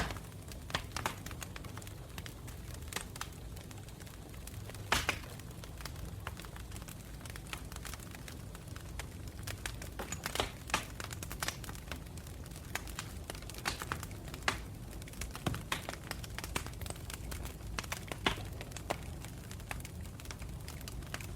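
Campfire in a forest burning steadily: irregular crackles and sharp pops of burning wood over a low, even rumble of the flames.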